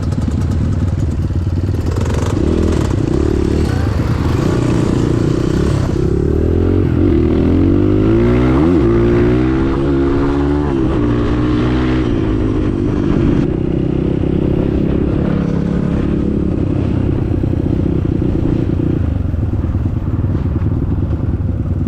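Motorcycle engine running under way, its pitch rising and falling with the throttle, over steady riding noise.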